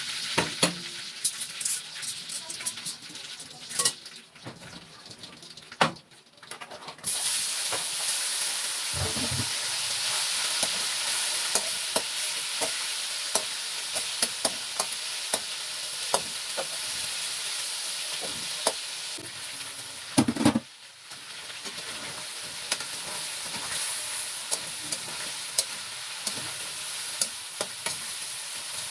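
Chicken pieces frying in hot oil in an aluminium wok, with metal tongs and a metal spatula clicking and scraping against the pan. About seven seconds in, the sizzle jumps to a loud steady hiss as the pan fills with chicken.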